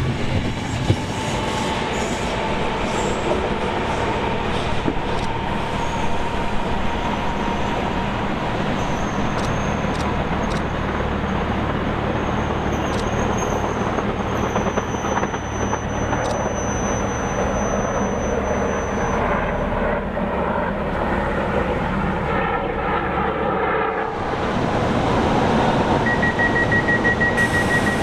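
Passenger train running on rails: a steady rumble of wheels and track noise, with a faint thin high whine over part of it. About 24 seconds in the rumble stops abruptly and a different sound takes over, with a steady high tone near the end.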